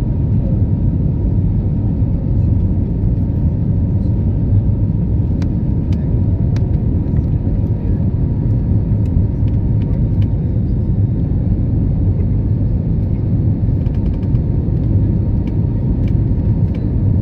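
Steady low rumble of airplane cabin noise, the engines and rushing air heard from inside the cabin, with a faint steady high tone running through it.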